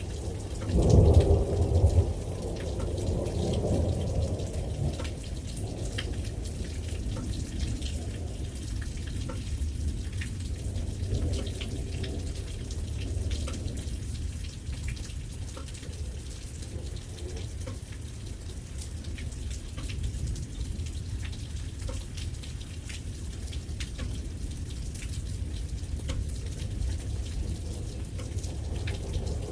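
Steady rain with patter of drops, and thunder: a loud rumble about a second in that rolls on and fades over several seconds, with a fainter roll later.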